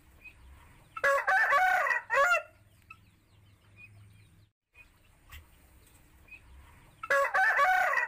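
Rooster crowing twice, about six seconds apart; each crow lasts about a second and a half and ends in a short separate final note.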